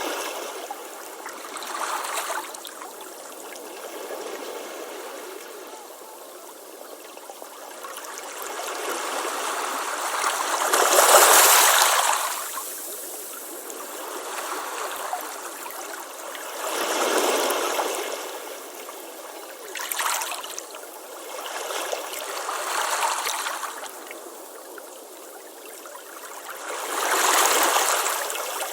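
Ocean waves breaking and washing up a beach, a rush of noise that swells and fades every few seconds, with the loudest wave about eleven seconds in.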